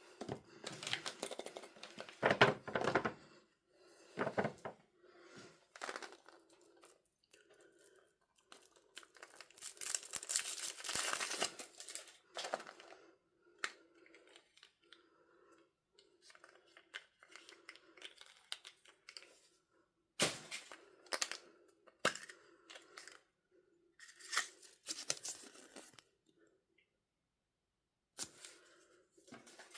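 Surprise packaging being torn open and crinkled by hand, in irregular bursts of tearing and rustling. The longest bout of tearing comes about a third of the way in, and a few sharp clicks or snaps come later.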